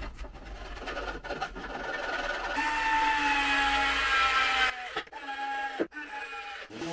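A handheld power tool's motor running in short spells. The loudest spell, about three to five seconds in, is a steady whine that sags slightly in pitch before it stops abruptly.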